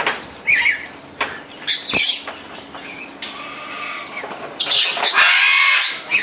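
Blue-and-gold macaw giving short squawks and clicks, then one loud, harsh squawk lasting about a second and a half near the end.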